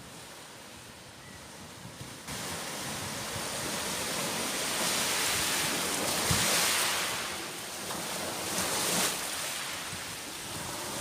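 Storm of strong wind and heavy rain: a rushing hiss that jumps up suddenly about two seconds in, peaks past the middle, eases, then swells again near the end.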